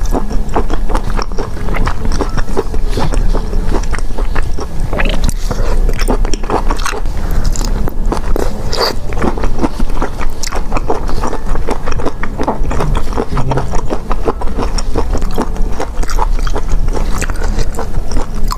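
Close-miked chewing and biting of seafood, a dense, irregular run of small clicks that goes on without a break.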